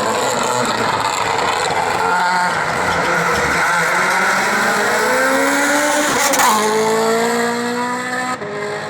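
Rally car engine at full throttle, its pitch climbing and then dropping at each gear change, with a sharp crack about six seconds in. An abrupt change near the end sounds like a cut to another car.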